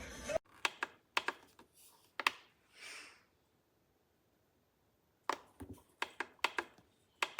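Irregular sharp clicks and taps: a few in the first two and a half seconds, then a cluster of about eight in the last two seconds, with a short soft hiss about three seconds in.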